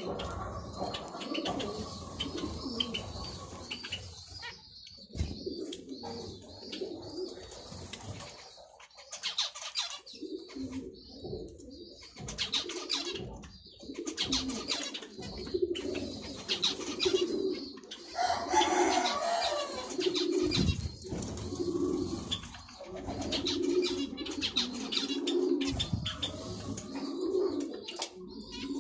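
Doves cooing over and over, with high chirps of small cage birds above them.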